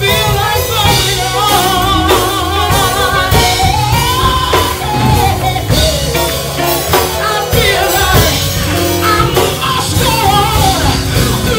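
Live gospel music: singing over drums, bass and other instruments with a steady beat.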